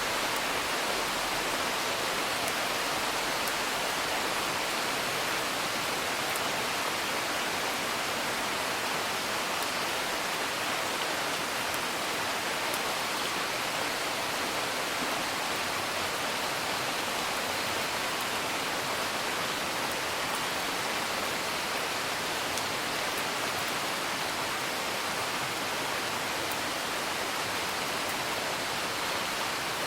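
Steady rain, with a few faint crackles of a wood fire.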